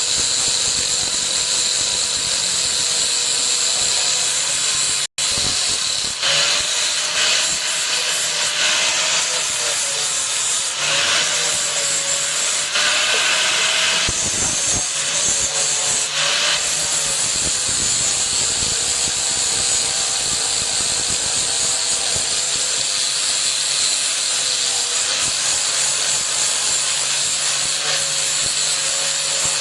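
Electric power tool grinding or sanding steel: a steady, loud hiss with a motor tone that wavers as the work is pressed, broken by a short cut about five seconds in.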